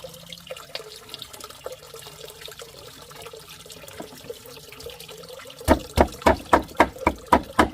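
Water running and splashing lightly. About two thirds of the way in, a rapid run of sharp, even knocks starts, about four a second, and becomes the loudest sound.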